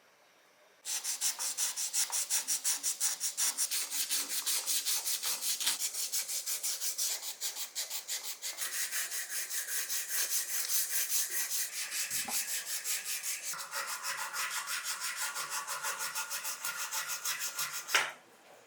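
Rapid back-and-forth abrasive rubbing by hand, about five strokes a second, starting about a second in and stopping abruptly near the end.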